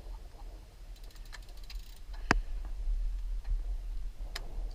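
Steady low rumble with a few separate sharp clicks, the loudest a little before halfway and another near the end.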